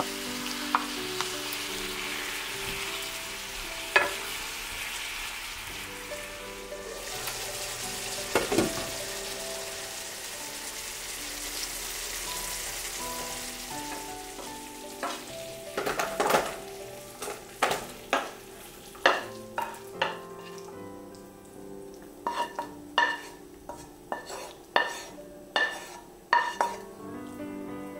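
Sausage and carrot pieces sizzling in sauce in a frying pan as they are stirred. In the second half come a series of sharp clacks from a utensil knocking against the pan and a plastic lunchbox as the food is scooped in.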